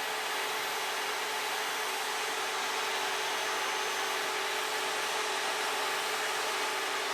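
Vevor electric wood planer running steadily: a constant motor hum over a broad hiss, with no change in pitch or level.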